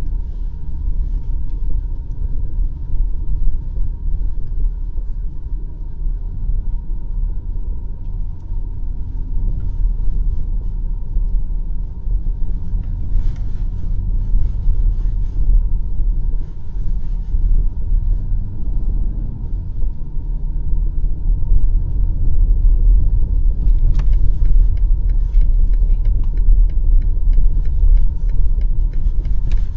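A BMW X5 M50i driving on snowy city streets: a steady, loud low rumble of road, tyres and drivetrain. A faint regular ticking starts about three-quarters of the way through.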